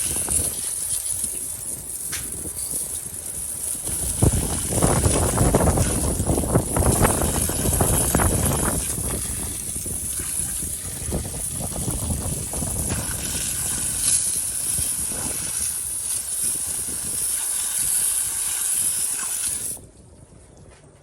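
A stiff brush scrubbing a degreaser-soaked engine, giving rough, irregular scratchy strokes that are heaviest for a few seconds in the first half. It stops abruptly about a second before the end.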